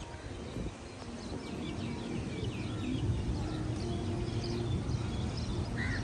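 Small birds chirping repeatedly over a low steady hum.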